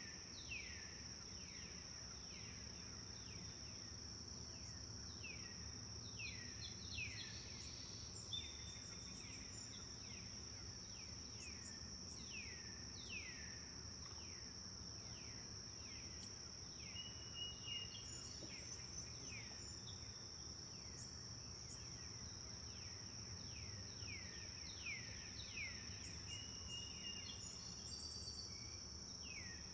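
Forest birds chirping in a steady stream of short, downward-sweeping calls with a few brief whistled notes, over a continuous high-pitched insect drone and a faint low rumble.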